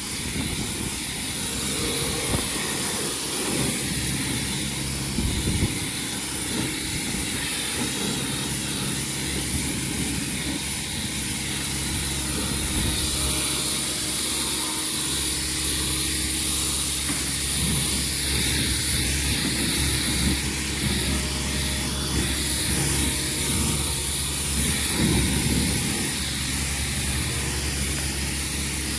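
An engine runs steadily with a constant high hiss over it and uneven low rumbling.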